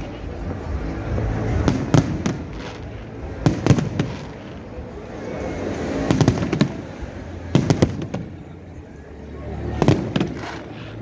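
Fireworks going off: groups of sharp bangs and crackles every couple of seconds over a steady wash of background noise.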